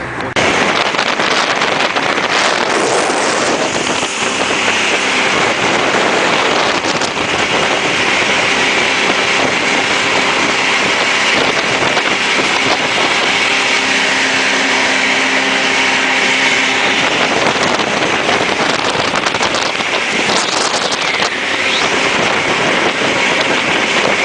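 Jet boat running at speed: a steady engine and water-jet roar mixed with wind buffeting the phone's microphone, starting abruptly about half a second in.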